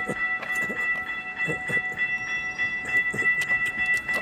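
Florida East Coast Railway freight train rolling past, with a steady high-pitched ringing tone held over low knocks from the passing cars.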